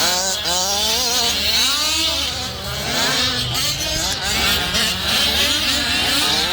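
Several gas-powered 1/5-scale RC cars such as the Losi 5T, their small two-stroke engines revving up and down as they race. Their overlapping pitches constantly rise and fall.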